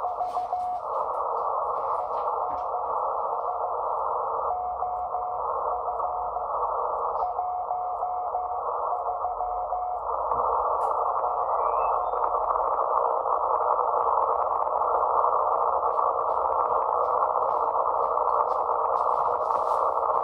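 Shortwave receiver in a narrow filter giving a band of static hiss, with a weak steady tone from a station's signal coming and going in short stretches. About halfway through, the hiss gets louder and the tone is lost under it: electrical noise from the house returning as the mains power comes back on and swamping the signal.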